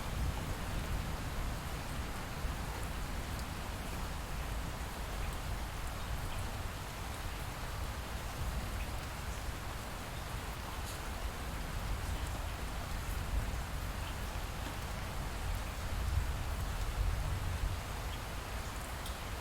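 Light rain falling steadily, with faint scattered drop ticks over a low rumble that swells briefly near the end.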